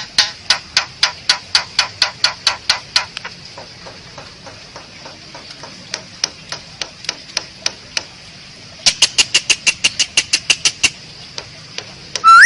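Asian pied starling (jalak suren) giving rapid runs of sharp clicking notes, about five a second. A loud run for the first three seconds, fainter ticks through the middle, and another loud run about nine seconds in.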